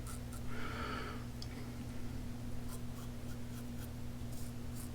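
Safety razor scraping through lather and stubble in short strokes over a steady low hum. A brief tone sounds just under a second long near the start.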